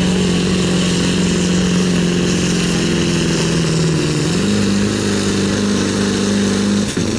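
Diesel pickup truck's engine running hard under load, pulling the weight sled. Its note sags slightly, steps up in pitch about four seconds in, then falls away sharply near the end as the engine comes off the throttle.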